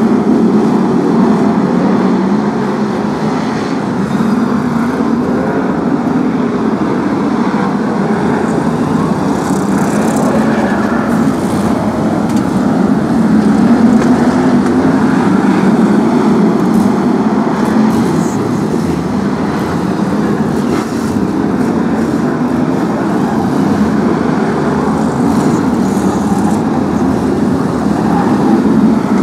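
A pack of BRISCA F1 stock cars racing, their V8 engines running hard and rising and falling in pitch as the drivers go on and off the throttle. This makes a loud, unbroken engine noise.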